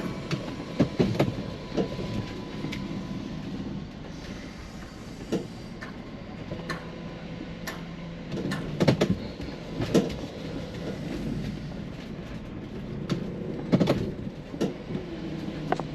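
Cargo van sounds: irregular clunks and rattles over a steady low hum.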